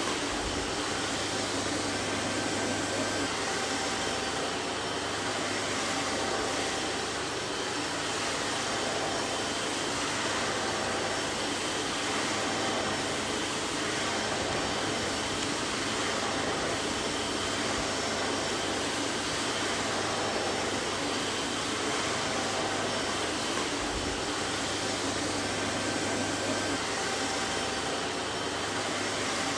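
Vacuum cleaner running steadily: an even rush of air with a faint high whine and a low motor hum.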